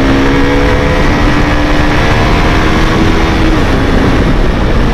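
KTM RC200's single-cylinder engine running at road speed, its note fairly steady, heard under heavy wind rush on the rider's microphone. The engine tone fades into the wind noise a little over halfway through.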